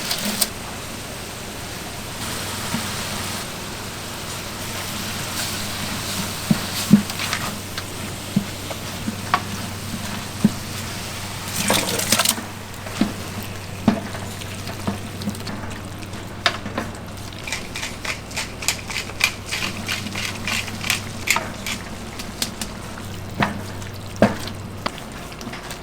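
Kitchen cooking sounds: a sizzling, frying hiss over a steady low hum, with scattered clicks and clatter of utensils. There is a louder rush of noise about twelve seconds in, and the ticking and clatter become denser in the second half.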